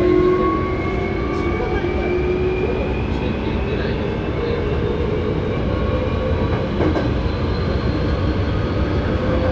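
Hankyu 7300 series electric train running, heard from inside the car: a steady rumble of wheels on track with a motor and gear whine that slowly rises in pitch as the train gathers speed. This car is known for an unusual running noise.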